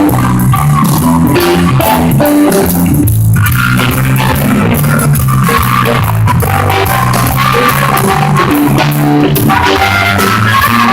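Rock band playing at a sound check: electric guitar, bass and drum kit.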